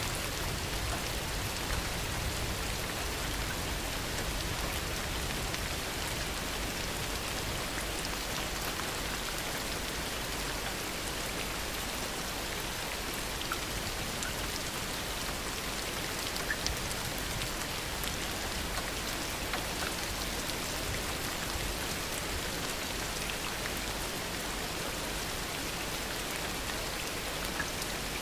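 Heavy rain falling steadily, a dense even hiss with scattered individual drips striking surfaces.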